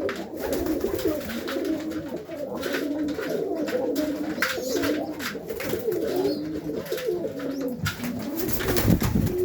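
Many domestic pigeons cooing together in a loft, their calls overlapping continuously, with scattered light clicks. A low rumble rises about eight seconds in and is loudest just before the end.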